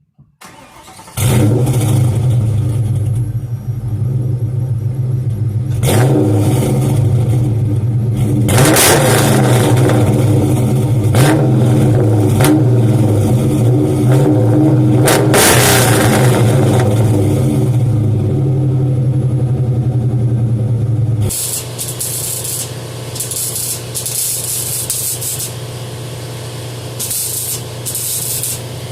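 2003 Mustang GT 4.6-litre two-valve V8 with long-tube headers, an off-road X-pipe and SLP Loudmouth mufflers, starting about a second in and running loud with several throttle blips. About 21 seconds in it settles to a steadier, quieter idle.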